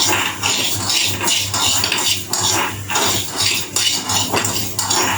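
A spoon stirring dry-roasted yellow moong dal in a pan, scraping and rattling the lentils against the pan about twice a second.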